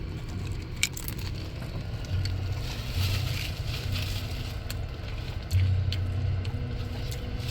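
Tortilla chips crunching as they are bitten and chewed, with sharp cracks and rustling, over a steady low hum.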